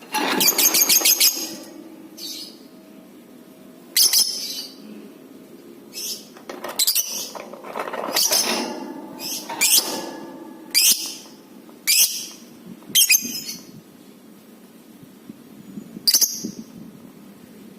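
Lovebird calling. It opens with a rapid chattering run of shrill repeated notes about a second long, then gives about ten short, sharp, high-pitched chirps at irregular intervals.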